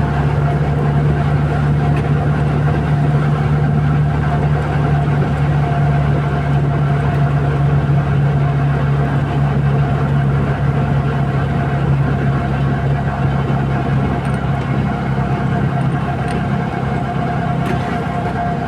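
Steady running noise of a vehicle: a constant low hum with a steady higher tone above it, unchanging throughout.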